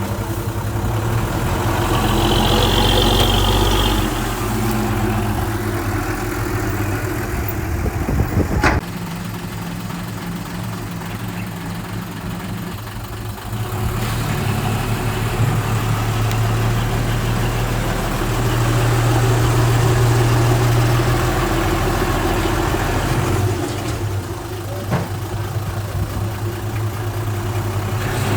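Heavy diesel engines of earthmoving machinery running, swelling and easing in load twice. A sharp knock comes about a third of the way in.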